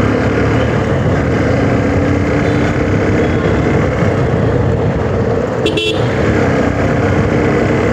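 Motorcycle riding in traffic: steady engine and road noise, with a short vehicle horn toot just before six seconds in.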